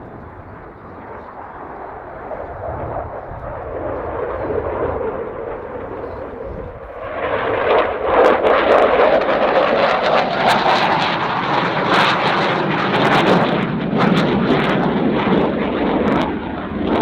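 Dassault Rafale fighter jet's twin Snecma M88-2 turbofan engines during a display pass. The roar builds over the first few seconds, then turns sharply louder about seven seconds in and stays loud with crackling.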